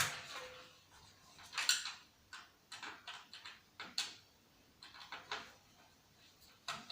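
Hard plastic and metal parts from a dismantled CRT TV/DVD combo being handled and set down, a string of separate clicks and knocks. The loudest come at the very start, near two seconds in and about four seconds in.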